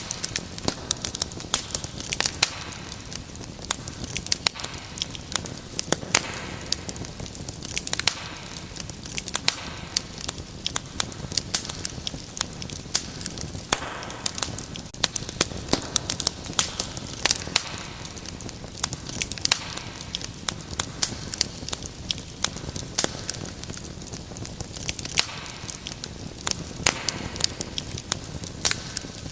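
Wood fire crackling in a fireplace: dense, irregular pops and snaps over a steady low hiss of burning.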